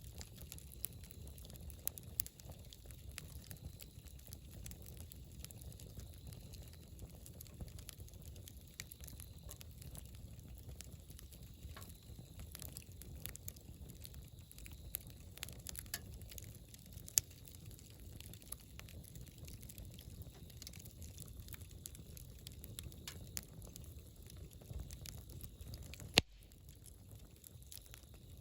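Wood campfire crackling, with scattered sharp pops over a low, steady rumble; one loud pop comes a little before the end.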